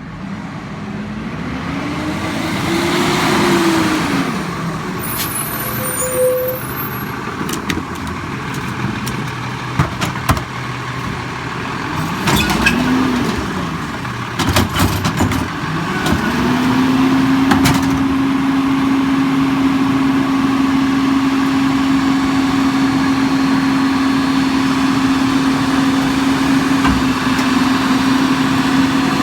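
Garbage truck pulling up and working a curbside pickup: the diesel engine revs up and down, sharp clanks and knocks sound as the cart is handled, then the engine holds a steady raised speed for the last half.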